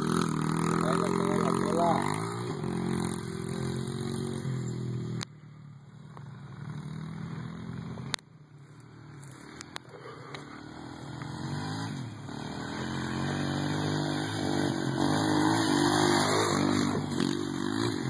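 Motorcycle engines revving. The engine note is loud at first and drops off abruptly about five seconds in, then builds again and grows louder toward the end.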